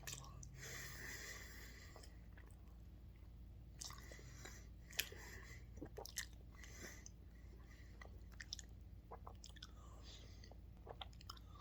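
Faint chewing of a soft, chewy pandan mochi, with scattered small mouth clicks; the sharpest click comes about five seconds in.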